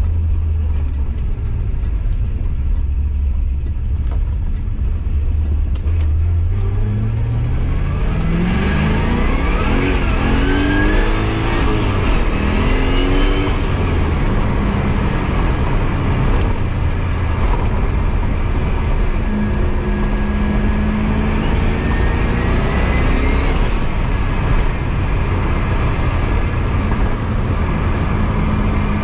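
Turbocharged LS V8 (S479 turbo) of a 1989 C4 Corvette, heard from inside the car. It holds a low steady drone, then from about seven seconds in it accelerates hard through two gears, the engine note rising twice with a high rising turbo whistle. A shorter pull with another whistle comes a little after twenty seconds, before the engine settles back to a steady cruise.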